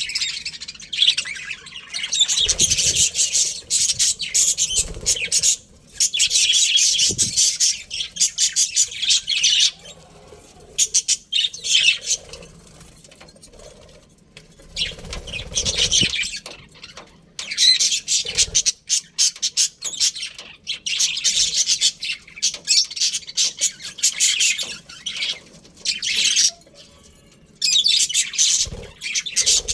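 Flock of budgerigars chattering and chirping in rapid, scratchy warbles, coming in bouts of a few seconds with short lulls between, plus a few soft low thumps.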